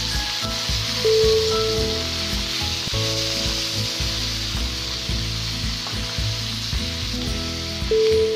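Chopped fenugreek leaves and potatoes sizzling in hot mustard oil in a kadai while being stirred with a spatula. Soft background music with held notes plays underneath, with a louder note about a second in and again near the end.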